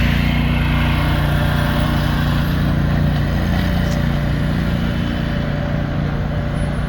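An engine of track-work machinery running steadily at a constant speed, slowly getting a little quieter.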